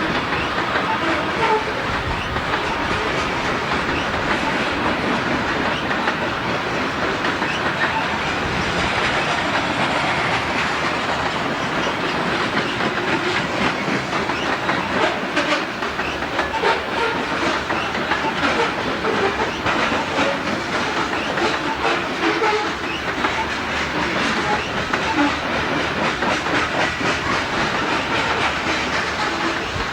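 Freight train cars rolling past, with steady wheel and rail noise, rapid clicking over the rail joints and scattered short squeaks.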